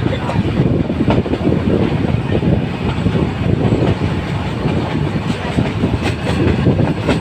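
Nilgiri Mountain Railway metre-gauge train running: a steady rumble of wheels on the rails, with a few faint clicks over rail joints.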